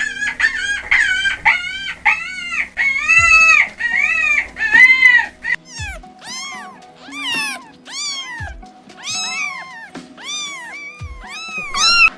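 An animal crying in a rapid series of short, high calls, each rising and then falling in pitch, about two a second.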